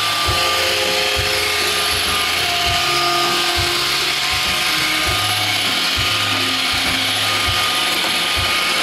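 iRobot Roomba 530 robot vacuum running its cleaning cycle: a steady whir from the vacuum motor and brushes, with whining drive motors that shift pitch now and then, and scattered low knocks.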